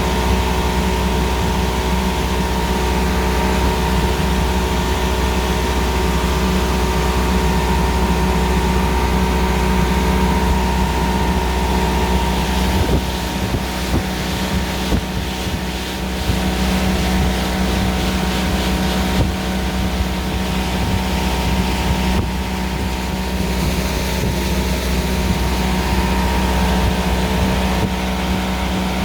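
1994 Evinrude 70 hp three-cylinder two-stroke outboard running steadily on its first run after a rebuild, with a brief dip in level about halfway through.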